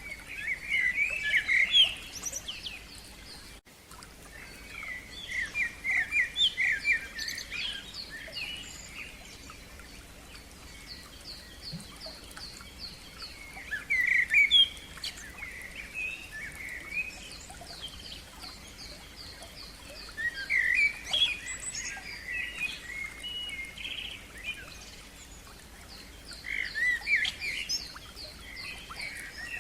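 Songbirds singing in short bursts of chirping phrases every several seconds, with runs of quick, evenly repeated higher notes between the phrases.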